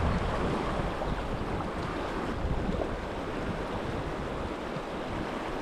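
Fast river current rushing steadily, with wind rumbling on the microphone, heaviest near the start.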